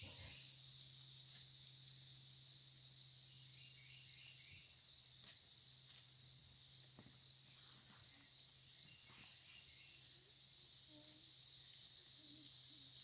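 Evening insect chorus, crickets trilling steadily with a regular, rapid chirping rhythm, over a faint low hum and a few soft handling clicks.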